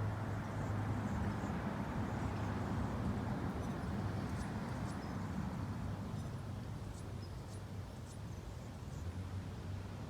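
Outdoor ambience on a walk: a steady low rumble, with faint short high chirps scattered through the middle seconds.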